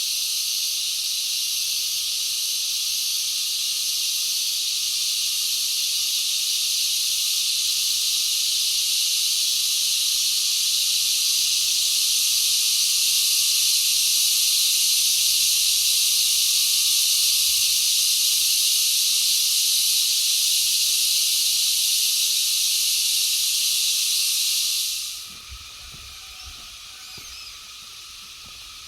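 Loud, steady high-pitched drone of cicadas that cuts off suddenly about 25 seconds in, leaving a few soft low thumps.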